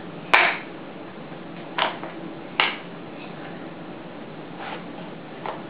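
A sharp click about a third of a second in, then a few short, soft knocks and rustles: a piece being fitted into a children's puzzle board.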